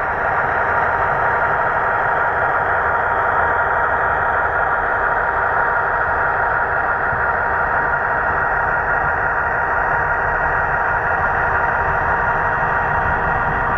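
HO-scale model of a 422 Class diesel locomotive running on the layout, its sound decoder giving a steady diesel engine sound.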